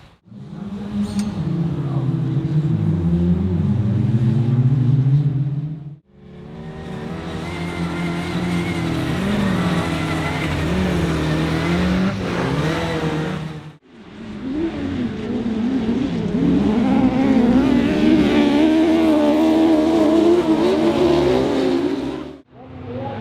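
Autograss racing cars' engines revving hard, the pitch rising and falling as they accelerate and lift off. The sound comes in three separate stretches that cut off abruptly, about 6 and 14 seconds in.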